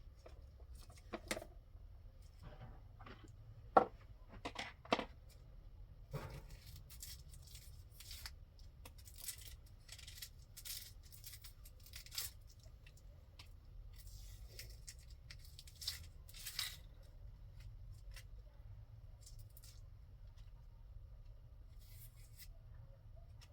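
Scattered small clicks, taps and short rustling or scraping sounds of objects being handled, with a sharp click about four seconds in, over a low steady hum.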